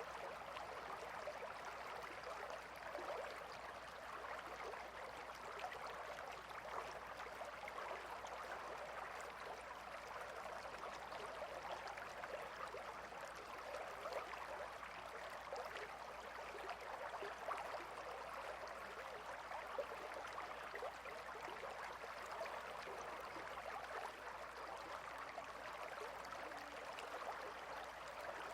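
Gentle river flowing: a steady, even wash of running water with fine, constant rippling.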